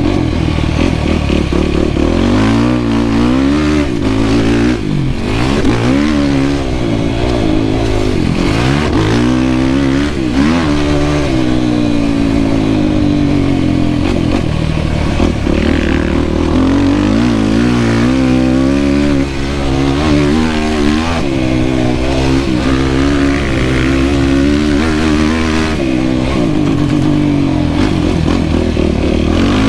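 Yamaha YFZ450R quad's single-cylinder four-stroke engine being ridden hard, revving up and falling back again and again as the rider works the throttle and gears.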